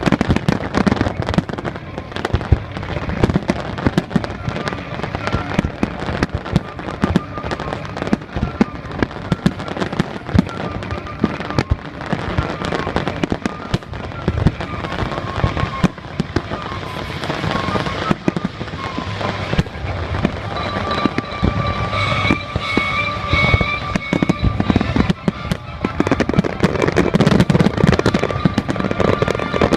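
Aerial fireworks going off in rapid succession, a dense run of bangs and crackles, with music playing over them; a melody stands out more clearly in the second half.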